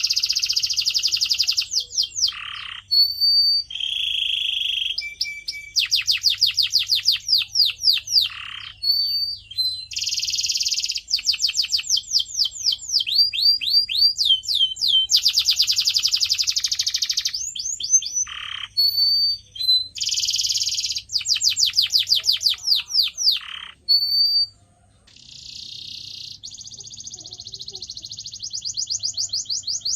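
Canary singing a long, continuous song of fast trills: runs of rapidly repeated downward-sweeping notes alternate with buzzy rolls and short whistled notes, broken by brief pauses, with a softer rolling passage near the end.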